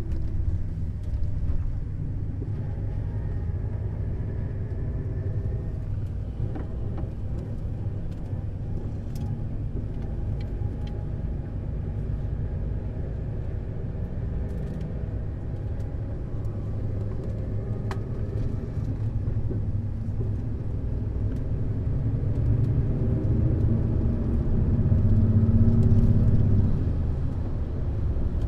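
Neoplan Skyliner N 1122/3C double-decker coach's diesel engine running on the move, with a steady low rumble. The engine note swells louder for a few seconds near the end, then eases off.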